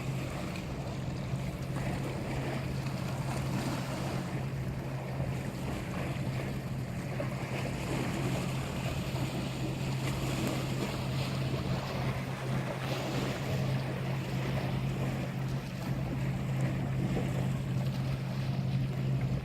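Boat engine running with a steady low drone, under wind and sea noise.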